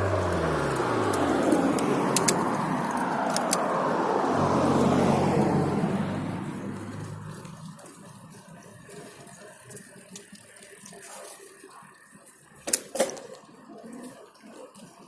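A motor vehicle going by: engine hum and road noise fall in pitch and fade over the first seven seconds. Quieter street sound follows, with a few clicks and a sharp knock about thirteen seconds in.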